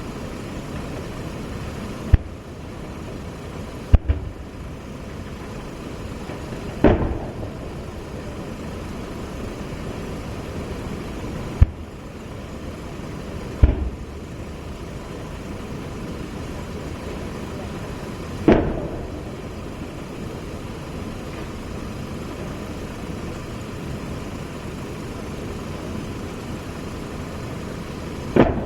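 Military weapons firing during a live-fire exercise: seven loud single reports a few seconds apart, some sharp and short, others heavier booms that echo away, over a steady background rumble.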